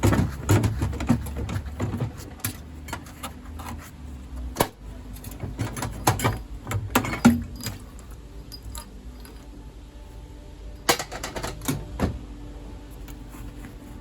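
Stainless steel boiler burner parts being handled, clattering and clinking in irregular runs of sharp clicks and knocks: busy in the first few seconds, again about six to seven seconds in, and once more near the end.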